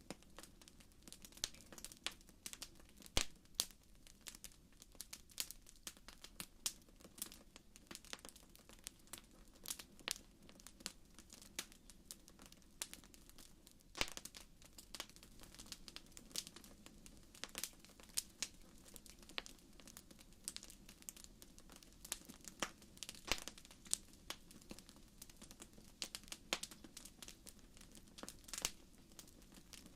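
Wood fire crackling in a fireplace: irregular sharp pops and snaps, several a second, over a faint steady low rush.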